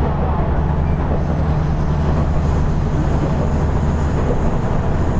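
KiHa 110 series diesel railcar running along the line, heard from inside the car: a steady low engine drone over the rumble of wheels on rails.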